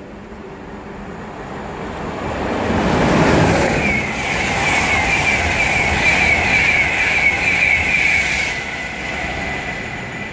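A Class 91 electric locomotive and its InterCity 225 train passing through the station at speed, with no horn. The rush of the passing train builds to its loudest about three seconds in, and a high, slightly wavering tone then rings for about four seconds as the coaches go by.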